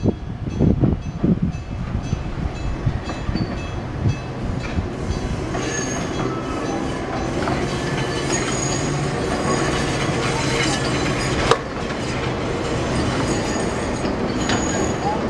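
An Enoden (Enoshima Electric Railway) train passing close by on street-running track, its steady rumble building as it comes near. High, thin wheel squeal comes and goes as it rounds the curve, and there is one sharp clack about eleven seconds in. A few low thumps sound in the first second or so.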